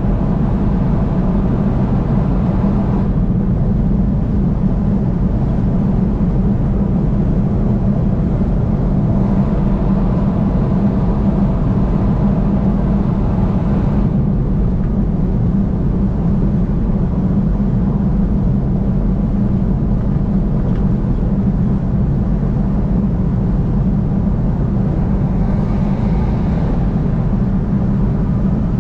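Steady low rumble of road and engine noise from a vehicle driving along the interstate.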